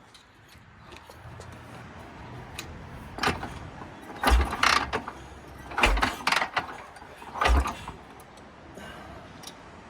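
Three heavy kicks on a Harley-Davidson Panhead's kick-starter, about a second and a half apart, each a deep thump with a mechanical clatter, without the engine firing.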